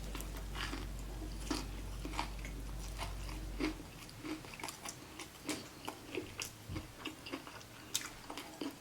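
Close-up mouth sounds of a person chewing a fried chicken sandwich on a glazed donut bun: many short, irregular wet smacks and clicks, a few a second.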